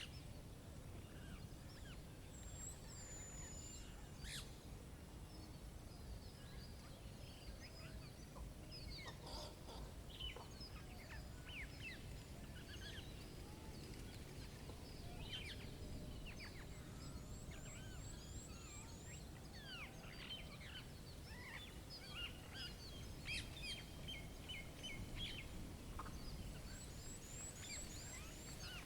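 Many small birds chirping and calling at a feeder, short scattered notes throughout with two quick runs of high repeated notes, over a steady low background rush.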